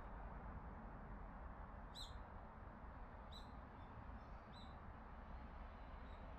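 A small bird chirping: four short, high notes spaced about a second apart, over a faint steady low rumble.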